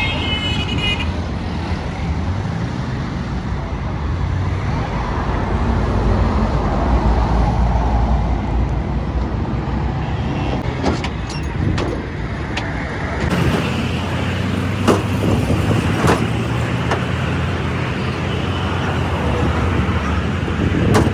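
Steady road traffic, with vehicle engines running and passing. A few short sharp knocks come through in the second half.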